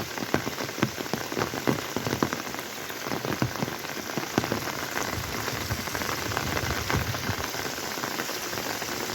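Heavy rain falling steadily, with a constant hiss and many separate drops splattering and tapping loudly on nearby surfaces.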